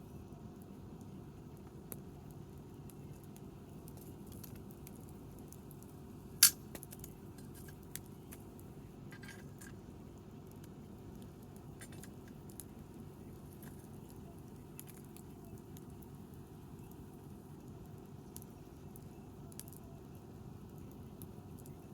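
Wood campfire burning with scattered small crackles and one sharp pop about six and a half seconds in, over a steady low background noise.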